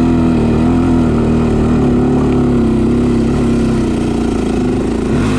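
Single-cylinder four-stroke engine of a 2014 Honda TRX400X sport quad pulling under load in third gear up a hill climb. It runs at steady high revs, and the pitch dips briefly near the end.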